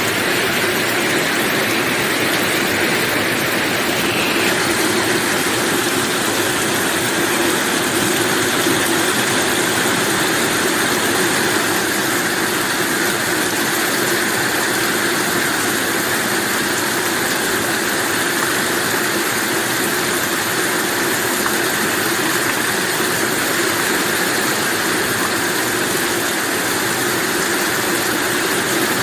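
Rain falling steadily: an even, unbroken hiss of rain.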